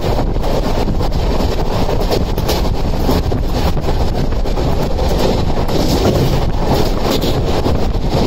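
Passenger train running at speed: a steady rumble of wheels on rail, with wind buffeting the microphone.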